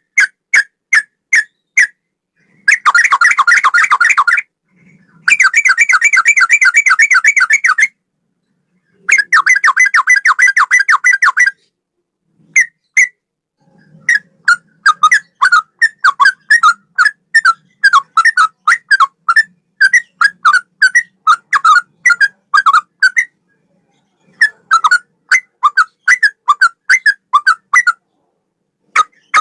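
Sooty-headed bulbul (trucukan) singing loud whistled notes with cucak rowo-style phrasing. Spaced single notes give way to three long, rapid trills of a couple of seconds each. Near the halfway point, fast runs of short chattering notes follow, broken by brief pauses.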